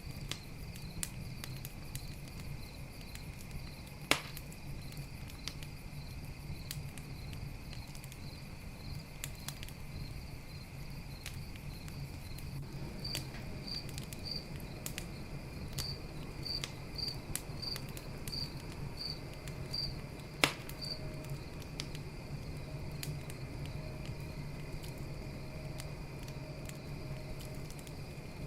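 Wood campfire crackling with scattered small snaps and two loud pops, about 4 s and 20 s in, over crickets chirping steadily.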